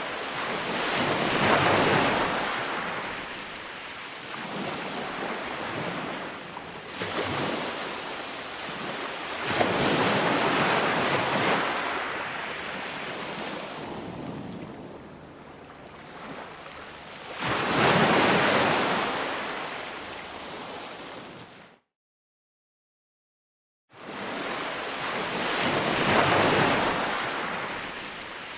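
Ocean waves breaking and washing on a shore, rising and falling in swells about every eight seconds. The sound cuts out to silence for about two seconds late on, then resumes.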